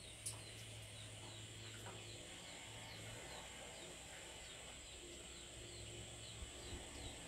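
Faint background: a bird repeating a short high chirp about three times a second, over a steady low hum.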